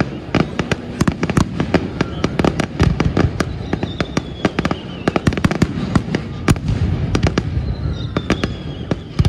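Aerial fireworks display: a rapid, continuous barrage of sharp bangs and crackles from bursting shells over a low rumble, with two faint falling whistles.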